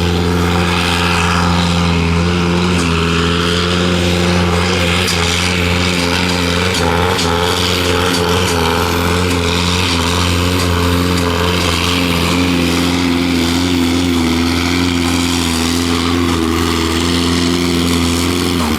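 Pulling tractor's engine running loud at steady high revs. Its pitch holds nearly constant and creeps up slightly in the second half, then the sound cuts off suddenly at the end.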